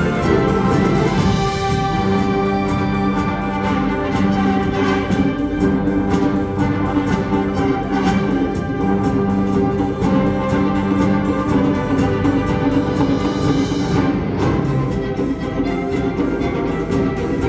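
Concert wind band playing long, sustained chords, brass and woodwinds together.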